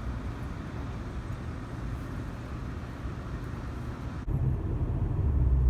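Steady traffic and vehicle rumble. A little past four seconds in it cuts abruptly to a louder, deeper, steady road rumble like that heard inside a moving car.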